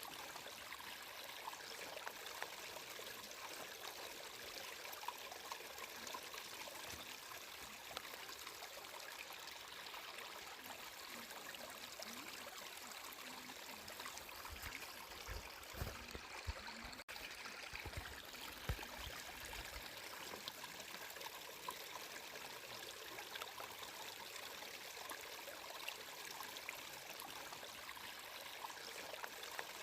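Water flowing in a stream: a steady rushing with many small trickling splashes, and a few low thuds around the middle.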